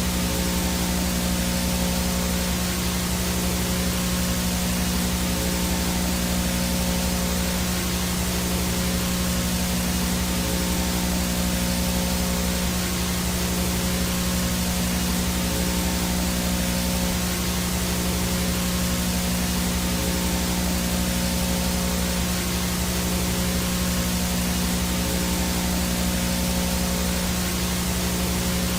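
VHS no-signal static: a steady, unchanging hiss with a strong low electrical hum and buzz underneath and a few faint steady tones above it.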